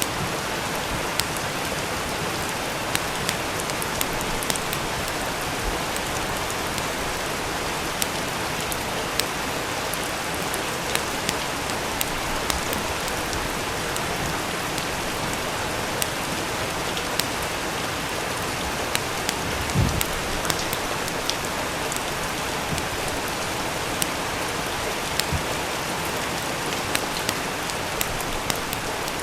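Steady rain with sharp, irregular crackles of a wood fire in a fireplace. A single low thump comes about two-thirds of the way through.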